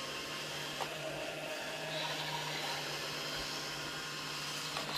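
Robot vacuum running on carpet: a steady motor hum and whir, with a small click about a second in.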